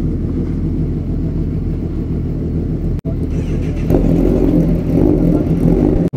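Motorcycle engines idling steadily, then revved up and down from about four seconds in.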